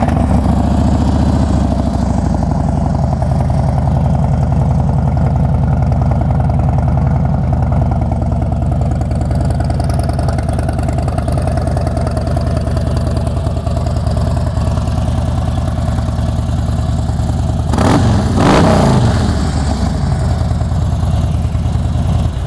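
2013 Harley-Davidson Fat Bob's 103 cubic-inch V-twin, fitted with a Vance & Hines 2-into-1 exhaust and Screaming Eagle heavy breather intake, idling just after starting, its idle easing down slightly in the first couple of seconds. About three-quarters of the way through, the throttle is blipped once, a short rev that rises and falls back to idle.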